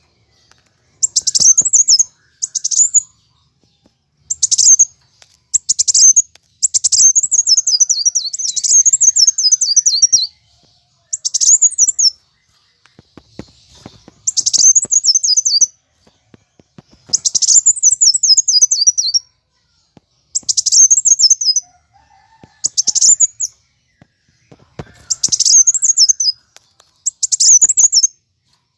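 Kolibri wulung sunbird singing in agitated fighting mode: repeated phrases of rapid, very high chattering notes, many in quick falling sweeps, each phrase one to three seconds long with short pauses between.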